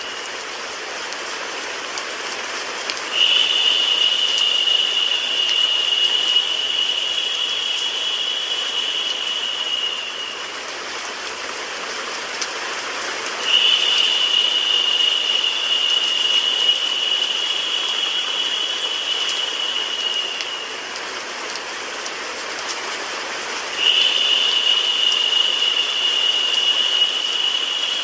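Steady rain mixed with white noise, an even hiss. A high, narrow hissing tone sits on top of it for about seven seconds at a time: it comes in about three seconds in, again past halfway, and once more near the end.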